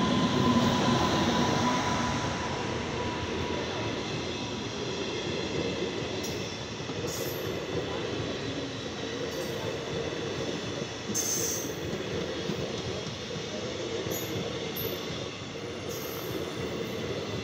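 Indian Railways electric locomotive and its passenger coaches passing close by. The sound is loudest in the first couple of seconds as the locomotive goes past, then settles into a steady rumble of wheels on the rails, with brief high squeals several times.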